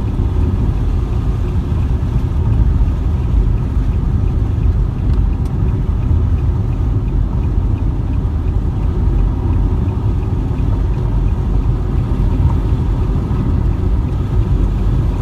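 Steady low rumble of a vehicle under way, from its road and engine noise.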